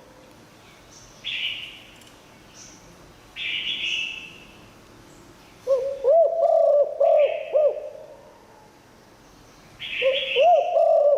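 Spotted dove cooing: a run of low, bending coo notes about six seconds in and again near the end. Short high chirps from other birds fall between the phrases.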